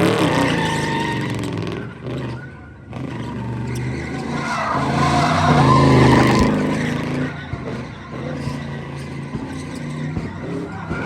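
A car engine revving hard while its tires squeal, as in a burnout or drift. The revs rise and fall, drop briefly about two seconds in, and are loudest about six seconds in.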